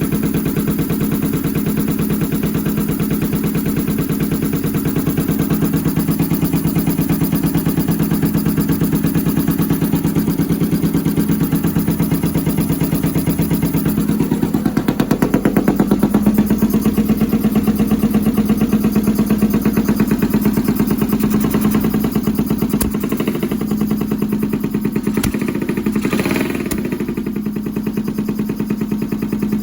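Honda CX500's liquid-cooled V-twin, fitted with Mikuni carburettors, running with a steady pulsing beat. It rises in speed and volume about halfway through, then settles back, and a couple of sharp clicks come late on. The uneven running is the sign of the right cylinder misfiring.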